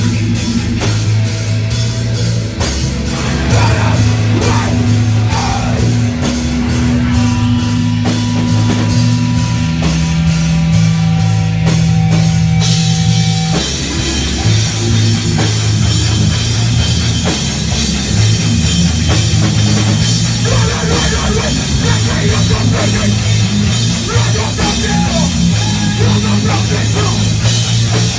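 Hardcore punk band playing loud and live: full band with drum kit, the song changing about halfway through.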